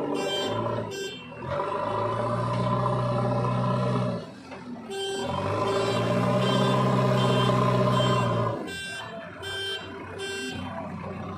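JCB 3DX backhoe loader's diesel engine running, revving up twice for a few seconds each. A repeating beeping alarm sounds near the start and again near the end.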